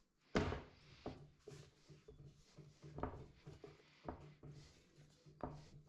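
Bread dough being kneaded by hand in a bowl: a series of irregular soft thuds and knocks, the loudest just after the start.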